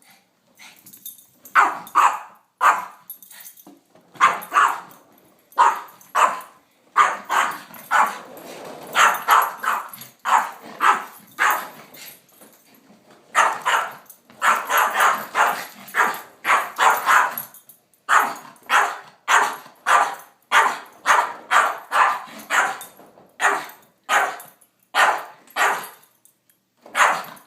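A dog barking over and over at a vacuum cleaner that is switched off, with short, sharp barks coming about one or two a second.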